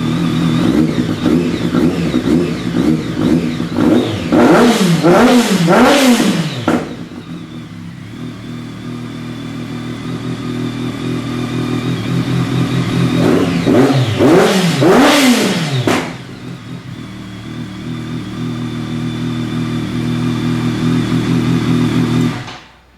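BMW K1200S inline-four motorcycle engine with an unbaffled Remus PowerCone exhaust, idling with two bursts of throttle blips that rise and fall in pitch. The idle then cuts off suddenly near the end.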